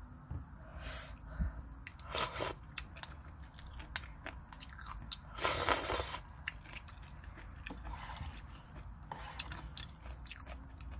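Close-up eating sounds of a person chewing instant cup ramen and kimchi, with many small wet mouth clicks and a few louder noisy moments, the loudest about five and a half seconds in.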